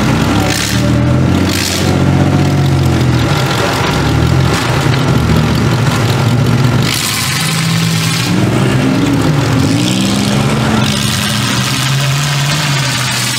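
Engines of several full-size demolition derby cars running and revving hard as the cars accelerate around the dirt arena and ram each other, the engine pitch rising and falling again and again.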